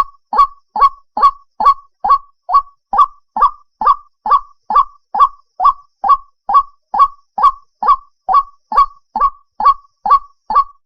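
White-breasted waterhen call, played as a bird-trapping lure: one short, harsh note repeated at a steady, unbroken rhythm of about two and a half calls a second.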